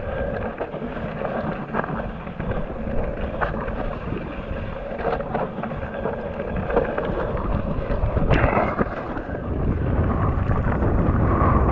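Wind buffeting an action camera's microphone during a mountain-bike descent, over the rumble of tyres on the dirt trail, with scattered knocks and clicks from the bike going over bumps; the sharpest clack comes about eight seconds in, and the noise grows louder near the end.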